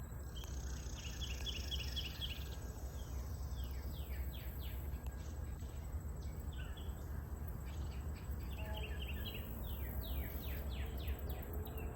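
Wild songbirds calling: a quick run of repeated chirps, then groups of short down-slurred notes, over a steady low rumble.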